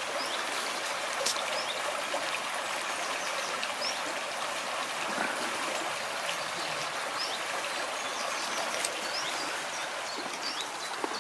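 Small river flowing, a steady rush of running water with no break.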